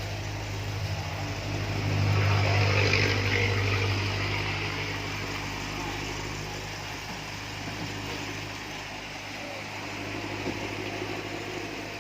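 A steady machine hum, with a swell of rushing noise about two seconds in that fades back over the next few seconds.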